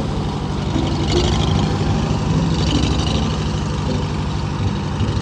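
Old Farmall tractor engine running steadily with an even low pulse as the tractor is driven.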